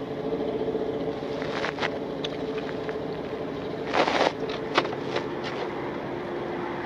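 Police patrol car driving at speed: a steady engine note over road noise. The note steps down slightly late on, and there is a short burst of noise about four seconds in, plus a few clicks.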